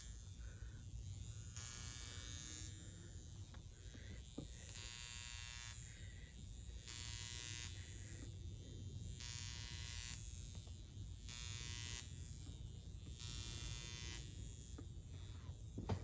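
High-frequency facial machine with a comb electrode buzzing as it is worked through the scalp. The high-pitched buzz comes and goes in spells of about a second, roughly every two seconds, over a low hum.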